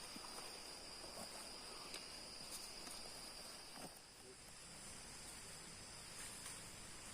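A faint, steady chorus of forest insects trilling at a constant high pitch, with a few light ticks scattered through it.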